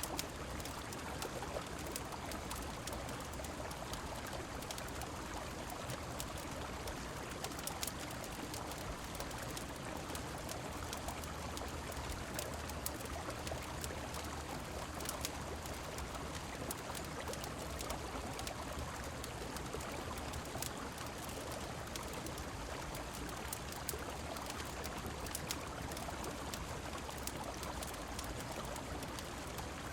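Steady rushing of a river mixed with falling rain, an even, unbroken wash of water sound. Scattered small sharp crackles, like those of a fireplace fire, tick through it.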